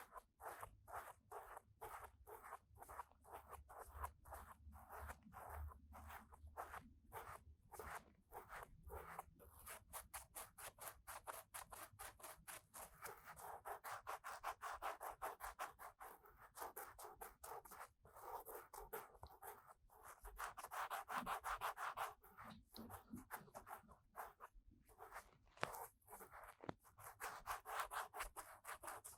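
Soft scratching and rubbing of an ear-cleaning tool inside the ear of a 3Dio binaural microphone: quick repeated strokes, with a few longer rubs in the middle.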